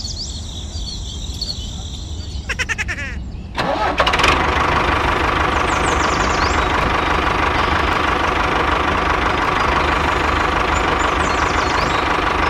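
A steady engine running sound starts abruptly about three and a half seconds in. Shortly before it there is a brief rattle.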